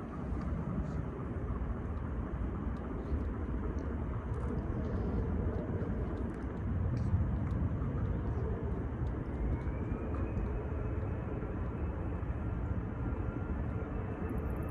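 Jet airliner engine noise: a steady low rumble, with a whine that rises in pitch about nine seconds in and then holds.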